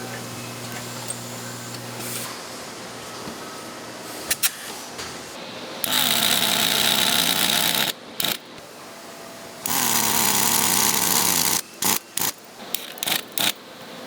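A power tool runs in two bursts of about two seconds each, with short sharp clicks and knocks between and after them.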